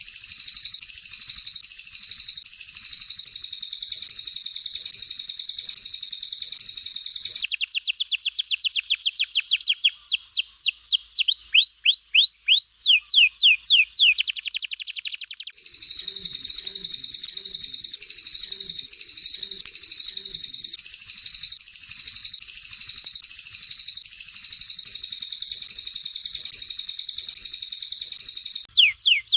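Canary and cililin songs from a masteran training recording. A dense, very high, fast trill gives way after about seven seconds to a quick run of downward-sweeping notes. The high trill then returns, and another run of sweeps comes right at the end.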